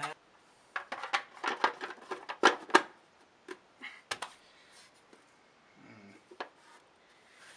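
Quick clicks and knocks of hard parts being handled on a vintage Hoover upright vacuum cleaner during reassembly: a fast cluster of clatter over the first few seconds, then a few single knocks.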